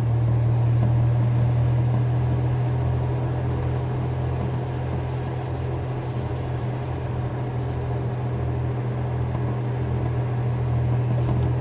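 Pickup truck driving, a steady hum of engine and road noise from inside the cab.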